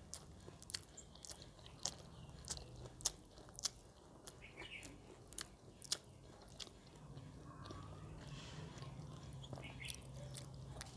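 A person chewing and biting food, with sharp crunchy clicks of the mouth coming irregularly through the first seven seconds or so; a faint low hum comes in after that.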